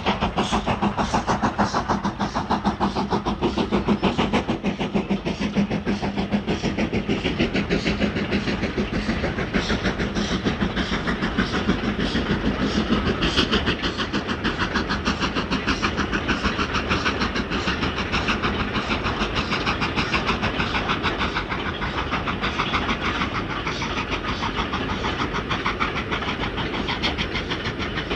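A train running, with a fast, even rhythmic clatter.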